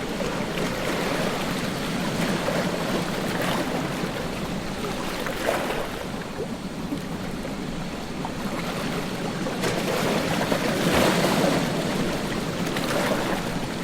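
Ocean surf washing onto a beach: a steady hiss of breaking waves that swells louder about ten seconds in.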